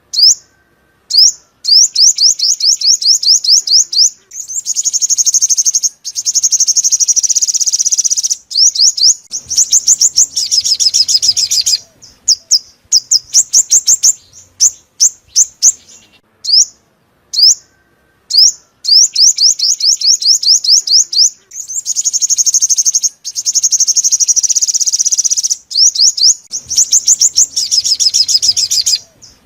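Sunbird song: rapid runs of high, thin chirps and trills in bursts separated by short pauses. The same sequence of phrases starts over about halfway through.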